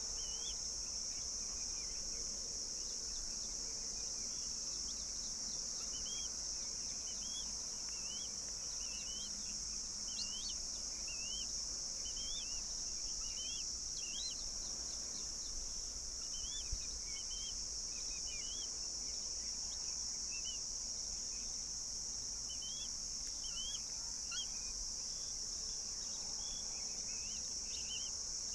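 Steady, high-pitched insect drone, with short, rising-and-falling bird chirps repeating every second or so over it.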